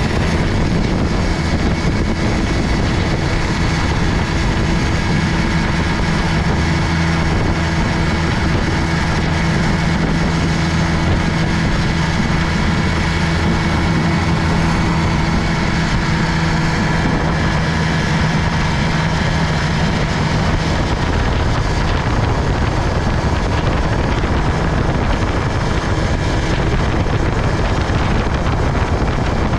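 1960 Gale Buccaneer 15 hp two-cylinder, two-stroke outboard motor running steadily with the boat under way, mixed with rushing wind and water noise. Its steady note changes a little about twenty seconds in.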